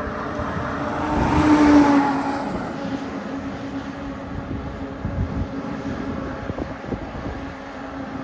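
Heavy truck driving past: engine drone and tyre noise swell to their loudest about two seconds in, then ease off into a steady lower rumble.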